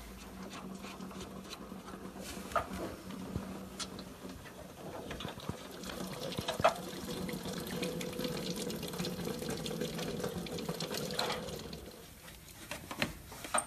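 Coolant running out of a disconnected hose into a pan in a steady stream, with scattered small clicks of tools and parts; the flow dies away near the end.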